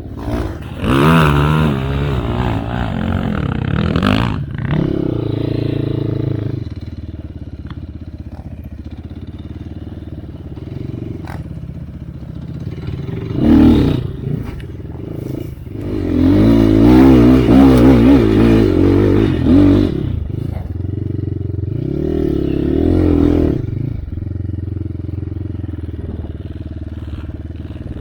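Enduro dirt bike engine revving in repeated bursts over rough, slippery ground, the pitch rising and falling with the throttle, with quieter steady running in between. The longest and loudest burst comes about two-thirds of the way through.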